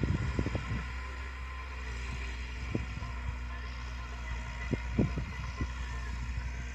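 Tractor diesel engine running steadily under load while driving a rotavator, a low drone with a faint whine above it, broken by a few sudden low thumps, the loudest about five seconds in.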